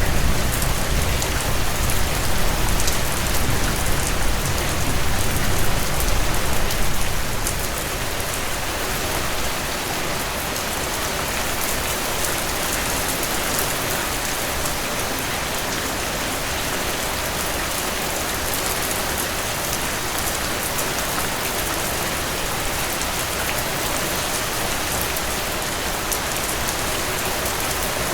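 Heavy rain falling steadily, a dense even hiss of drops on hard surfaces. A low rumble underlies it for the first seven seconds or so, then fades out.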